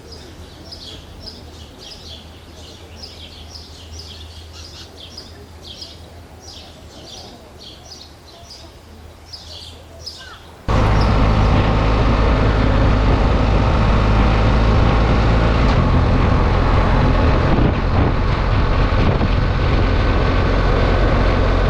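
Small birds chirping in short repeated calls over quiet background noise, then, about ten seconds in, an abrupt cut to loud, steady motorcycle engine and wind noise of a bike under way.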